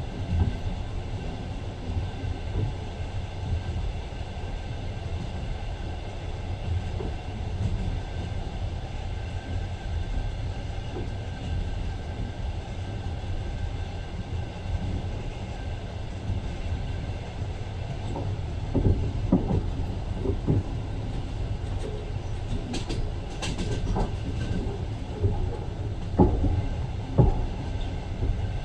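Moving train rolling along the rails, heard from on board: a steady low rumble with sharp wheel clacks over the rail joints, which come thicker in the last third.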